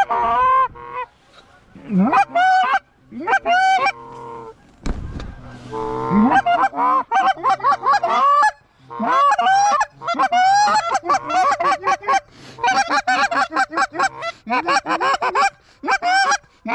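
Canada geese honking and clucking in rapid, overlapping calls with only brief pauses. There is a low thump about five seconds in.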